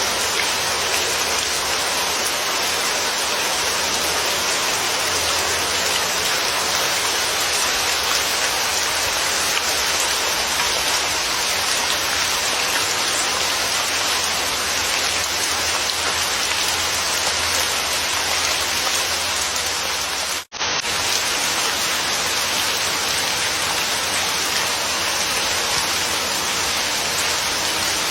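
Steady, dense rainfall with an even hiss. About two-thirds of the way through, the sound cuts out for a split second, then resumes unchanged.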